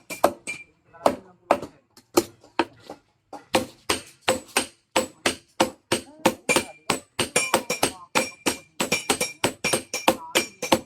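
Blacksmith's hand hammer striking a sickle blade on an anvil in quick, uneven blows, each with a ringing note, with a brief pause about three seconds in.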